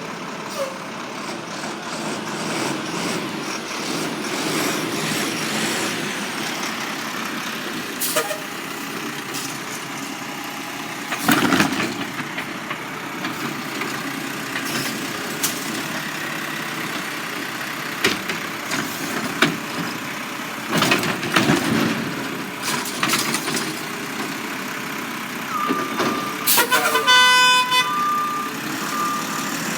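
Garbage truck at work: the engine runs steadily under several loud bangs and clanks, with a short loud pitched blast and a repeating beep near the end.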